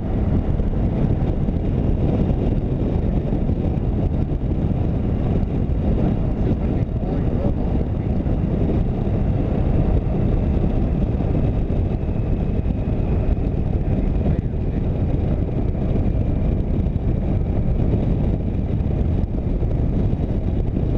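A motorcycle on the move: a steady rush of wind over the microphone mixed with engine and road noise.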